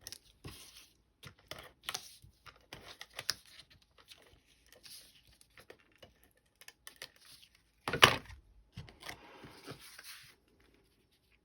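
Paper and small craft pieces being handled on a tabletop: scattered rustling, light taps and clicks, with one louder knock about eight seconds in.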